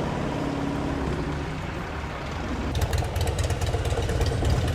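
Motorcycle engines running among a crowd of parked bikes. About three seconds in, one gets louder with a quick beat of exhaust pulses.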